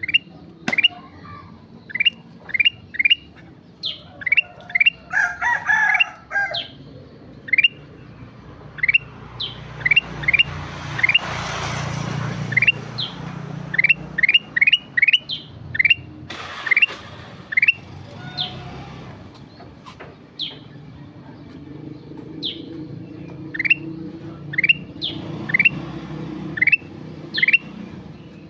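A kutilang emas (bulbul) in full song: a long string of short, sharp, rising whistled notes, often in quick runs of two to four. A brief swell of rushing noise with a low rumble comes about halfway through.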